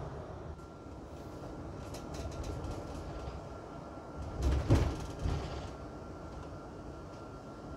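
Running noise inside a moving train carriage: a steady low rumble with a faint steady whine, a brief patter of clicks about two seconds in, and a louder knock and rattle about four and a half seconds in.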